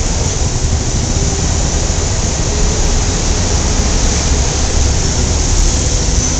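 Steady loud roar of city street traffic, motor vehicles and motorcycles running together into a continuous rumble.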